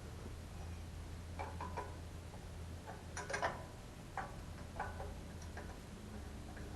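Irregular light clinks and taps of hand tools and bolts being handled while fitting a radiator fan shroud, a handful of them with a brief cluster about three seconds in, over a steady low hum.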